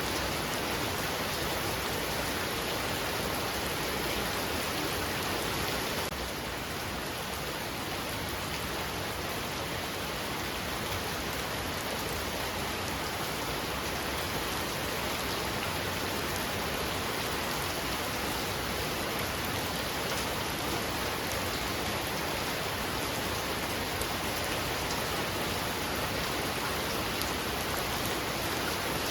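Heavy rain falling steadily, a dense even hiss with no separate drops or thunder standing out; it eases slightly about six seconds in.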